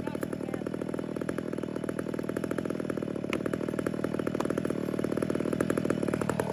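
Two-stroke chainsaw idling steadily with rapid, even firing, growing slowly louder.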